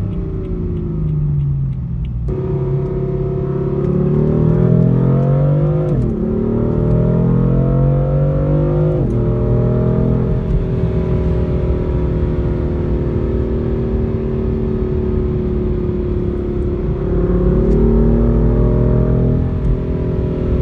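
Car engine accelerating hard, climbing in pitch and dropping sharply twice as it shifts up through the gears, then settling into a steady cruise.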